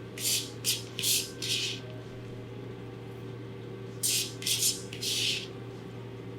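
Kitchen knife chopping fresh cilantro on a cutting board: short, crisp slicing strokes, four in quick succession, then a pause and three more about four seconds in, over a steady low room hum.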